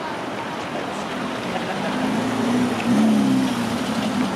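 Fire truck engine running as the vehicle moves past, with a steady low hum that grows louder and rises briefly in pitch about three seconds in.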